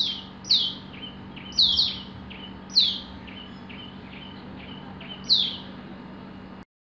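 Birds chirping: six loud, quick whistled notes that each sweep downward in pitch, with softer short chirps between them. The sound stops abruptly near the end.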